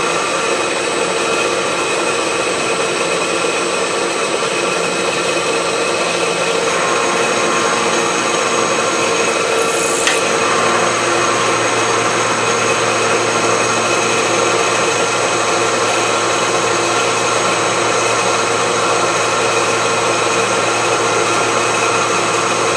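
Milling machine running steadily while its cutter takes a deep cut in a wood-chipper blade, a constant mechanical whine made of several held tones. A brief click sounds about ten seconds in, and a low hum joins soon after.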